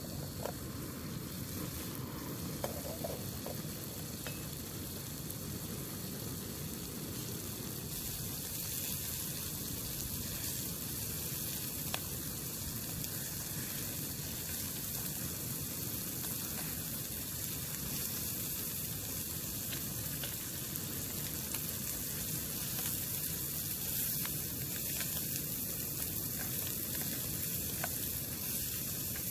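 Food sizzling steadily in a hot frying pan, with a few faint ticks.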